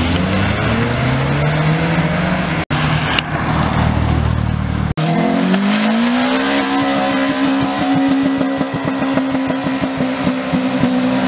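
Car engines accelerating away in a string of short edited clips: first a Volkswagen Polo estate's engine revving up as it pulls off, then, after a cut about five seconds in, a Toyota Corolla hatchback's engine rising in pitch and holding a steady high note with a rapid pulsing as it drives off.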